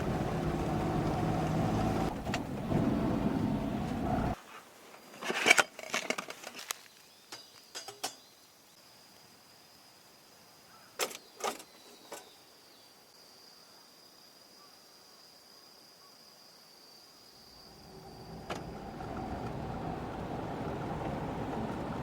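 A Suzuki Jimny's engine running with a steady hum that stops abruptly about four seconds in. A run of clicks and knocks follows, with a faint steady high whine, and a steady rushing noise rises again near the end.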